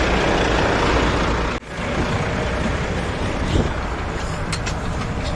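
Volvo FH 440 truck's D13 diesel engine running steadily, with a brief break about one and a half seconds in where the sound drops out and picks up again.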